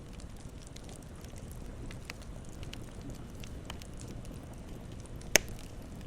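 Campfire burning: a steady low rumble of flames with scattered small crackles, and one loud, sharp pop near the end.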